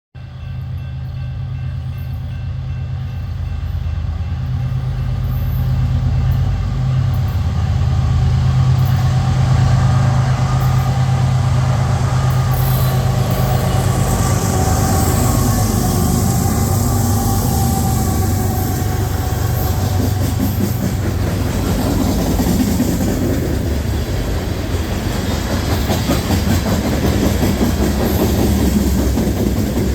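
Coal train passing: a steady low hum from the locomotives' engines builds to its loudest about ten seconds in. After about twenty seconds the hum gives way to the rolling rumble of the loaded cars' steel wheels on the rails.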